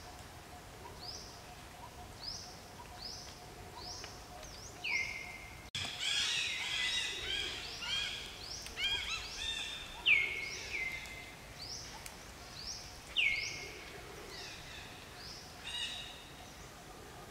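Wild birds calling: a single rising chirp repeats about once every 0.7 s. About six seconds in it gives way to a denser chorus of overlapping chirps, with a few loud, sharp falling whistles.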